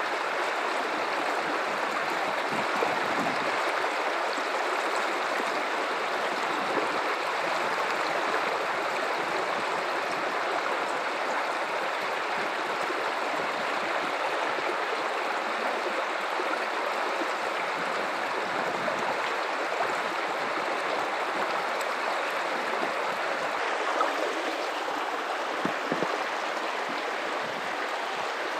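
River water running over rocks in a steady rushing babble, with a few small splashes standing out now and then.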